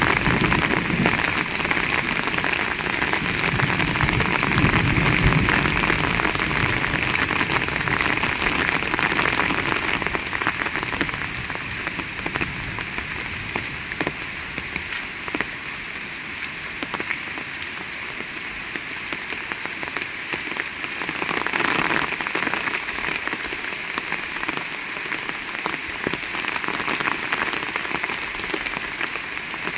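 Heavy rain falling steadily, with many sharp individual drop hits through a constant hiss. A low thunder rumble dies away over the first few seconds.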